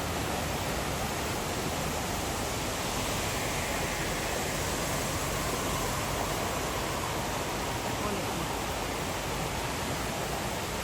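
Waterfall: falling water making a steady, unbroken rushing noise that fills every pitch.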